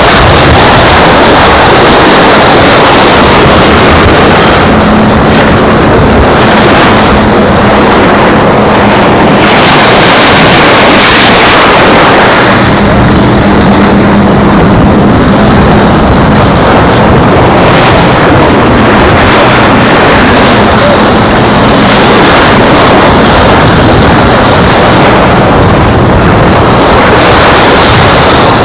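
Strong wind buffeting the microphone over beach surf, loud and constant, with a low steady hum that comes in twice for a few seconds.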